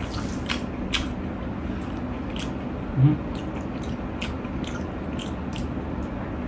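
Close-miked eating sounds: a mouthful of rice and mutton curry being chewed, with scattered wet mouth clicks and smacks and a brief low vocal sound about three seconds in.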